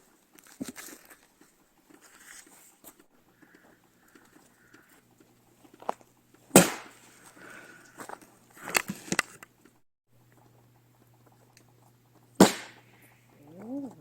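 A few sharp knocks or strikes, the loudest about a third of the way in and again near the end, with a quick cluster in between. A short rising cry is heard just before the end.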